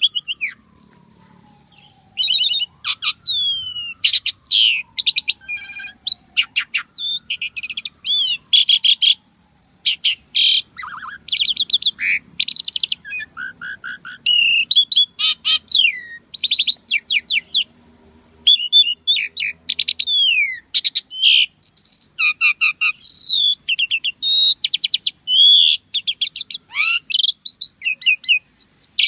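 Asian pied starling singing without pause: a fast, varied string of whistles, trills and chattering clicks. A faint, slow rising-and-falling whistle runs underneath for the first several seconds.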